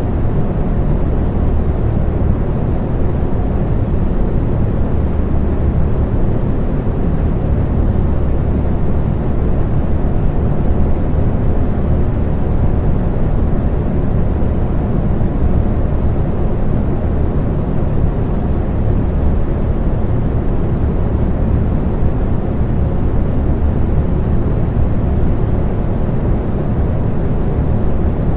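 Electric fan running steadily, a constant low whooshing rumble of moving air with a faint steady hum from the motor.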